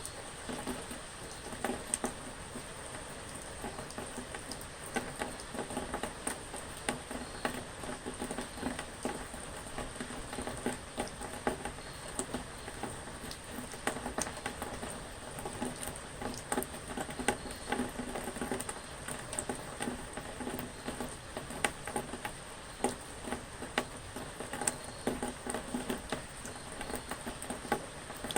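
Steady rain, with many drops pattering irregularly on a hard surface.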